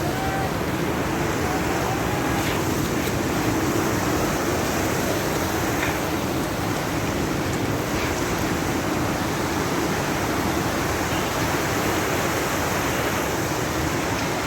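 Waterfall roaring: a loud, steady rush of falling water with no break.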